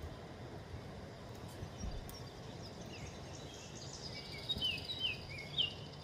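A small songbird chirping: a quick series of short, downward-slurred notes in the second half, over steady outdoor background noise.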